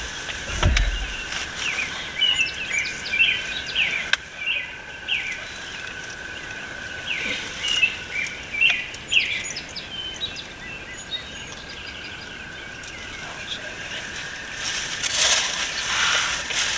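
Songbirds of the dawn chorus chirping and singing in many short phrases, thickest in the first ten seconds, over a steady high-pitched tone. There is a low bump just after the start and a short burst of rustling noise about fifteen seconds in.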